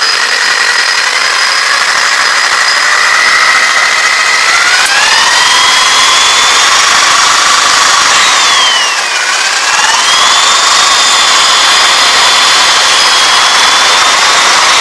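Electric drill spinning a wire wheel against a radiator valve stem to clean it. The motor whines steadily, rising in pitch about four seconds in, dipping briefly about two thirds of the way through, then climbing again before falling off near the end.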